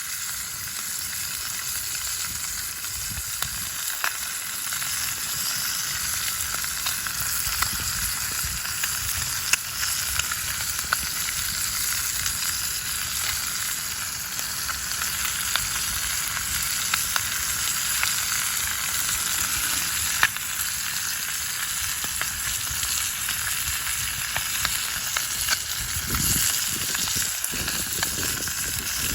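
Food sizzling and frying in a pan over a campfire: a steady hiss with scattered sharp pops.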